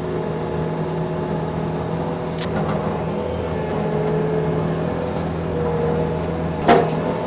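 Tractor engine running steadily while pushing brush piles with loader brush forks. Two sharp knocks cut through it, a faint one about two and a half seconds in and a louder one near the end.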